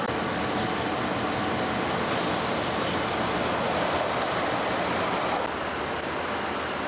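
Perth suburban diesel railcar running past: a steady mix of engine and wheel-on-rail noise. It changes abruptly just after five seconds, when it drops a little quieter.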